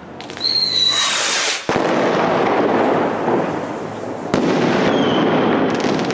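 Aerial fireworks going off overhead. Near the start there is a short whistle and a rushing hiss, then sharp bangs, one about a second and a half in and another about four seconds in with a second short whistle, with loud rushing noise in between.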